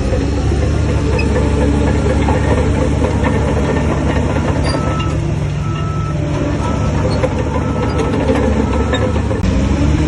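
Heavy earthmoving machine's diesel engine running steadily under load, with a reversing alarm beeping about once a second from around halfway.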